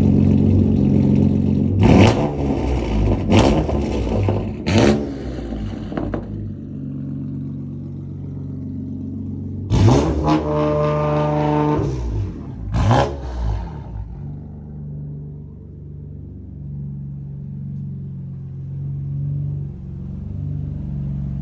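Car engine revving through its exhaust muffler: three sharp throttle blips in the first five seconds, then idle, a longer climbing rev with two quick blips in the middle, then a steady low idle.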